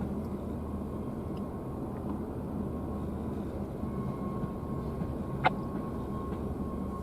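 Steady low rumble of a diesel locomotive running during rail-yard switching. A faint steady tone comes in about four seconds in, and there is a single sharp click a little later.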